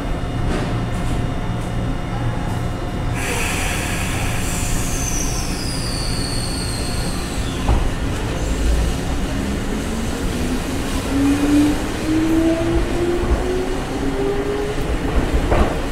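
Eizan Electric Railway 700 series electric railcar pulling out and moving off, with a steady low rumble. A few seconds in comes a high wheel squeal sliding down in pitch. Later a whine climbs steadily in pitch as the car picks up speed.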